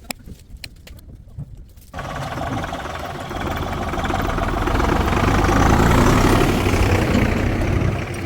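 A few light knocks, then about two seconds in a heavy engine starts sounding abruptly, growing louder and easing slightly near the end.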